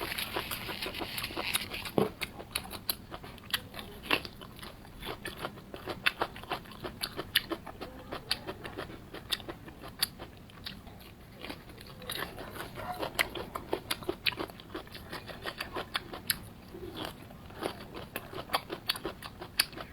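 A person biting and chewing crispy fried food close to the microphone: many irregular, sharp crunches with short pauses between bites.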